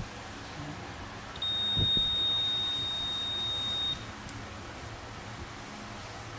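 A multimeter's continuity buzzer giving one steady high beep about two and a half seconds long as the probes bridge a line on the phone's board, with a soft knock near the start of the beep.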